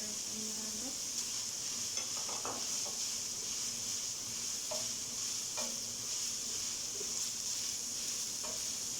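Minced meat with ginger and garlic sizzling steadily as it fries in a pan, stirred with a spoon that scrapes the pan a few times.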